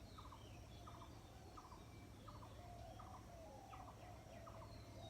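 Faint morning chorus of several birds: a short stuttering call repeats roughly every two-thirds of a second, under scattered sliding whistled notes.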